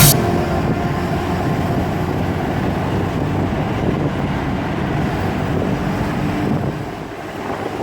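A BMW driving: steady road, engine and wind noise, easing off a little about seven seconds in.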